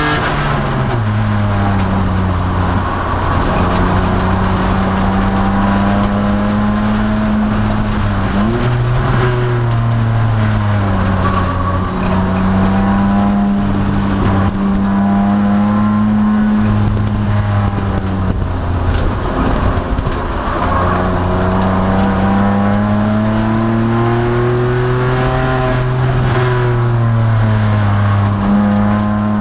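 2002 Nissan Maxima race car's 3.5-litre V6 engine under racing load, its pitch climbing as it accelerates and then falling back under braking, several times over. About eight seconds in there is a quick drop and recovery in pitch, like a gear change.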